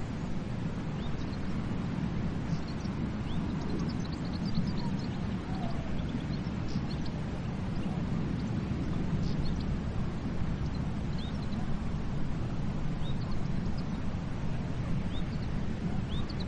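Steady rumble of ocean surf and wind, with short high bird chirps scattered over it in small clusters.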